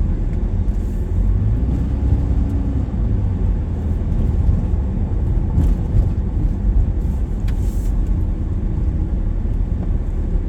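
Vehicle driving along a road, a steady low rumble of engine and tyre noise heard from inside the cab.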